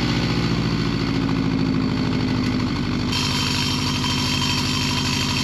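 2015 Subaru WRX STI's turbocharged flat-four idling through a new budget cat-back exhaust with its silencer fitted, moments after start-up. The idle is steady, easing slightly about three seconds in as a hiss joins it.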